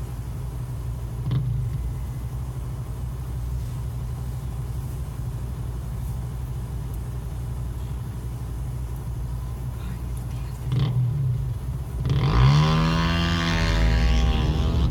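Vehicle engines idling with a steady low rumble at a traffic light; about twelve seconds in, an engine revs up and accelerates, its pitch rising.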